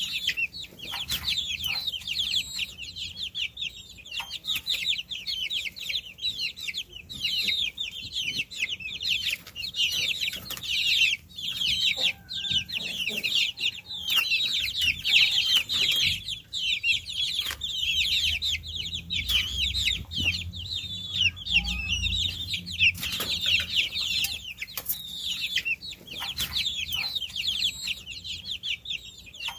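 A brood of baby chicks chirping continuously, many high-pitched peeps overlapping at once.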